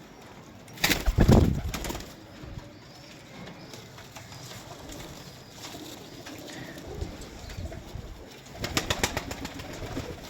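Pigeons cooing, with two loud bursts of rustling, about a second in and again near the end.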